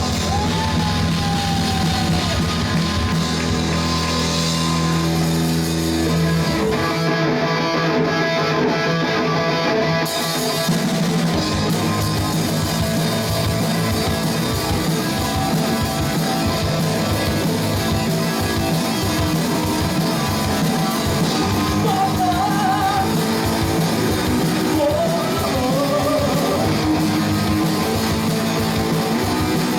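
Loud rock music with singing, electric guitar and drum kit. About seven seconds in, a held low bass note gives way to a fast, driving drum beat.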